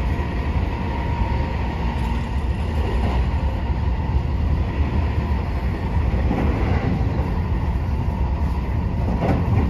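JR train running at speed, heard from inside the carriage: a steady rumble of wheels on rail, with a faint high steady tone in the first second or two.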